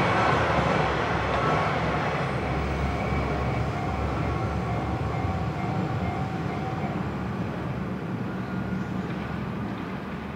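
A train passing on the line, its wheels and running gear rumbling with a faint steady whine. The noise slowly fades as it moves away.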